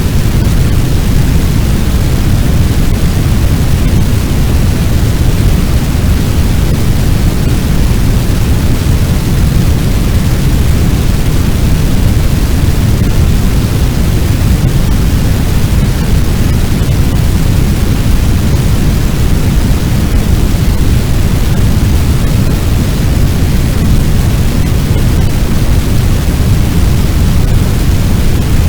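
Fire sound effect of a large blaze: a loud, steady, low rumbling noise with no distinct crackles or pops.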